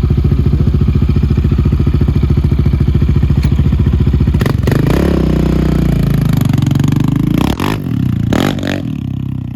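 Yamaha Raptor 700 ATV's single-cylinder four-stroke engine idling with an even beat. About halfway through the sound turns uneven and wavers in pitch, with a few clatters and knocks.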